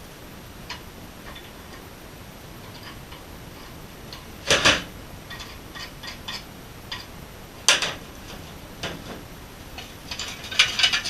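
Metal tools and parts being handled and set down: scattered small clicks with two louder short clatters partway through and a quick run of clinks near the end.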